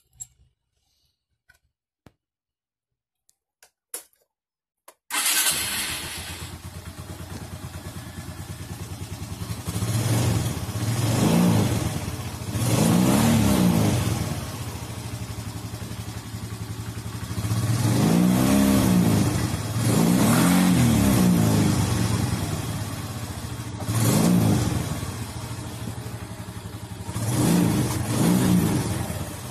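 Suzuki Skydrive 125 scooter's single-cylinder engine starting about five seconds in after a few faint clicks, then idling and being revved up and back down several times.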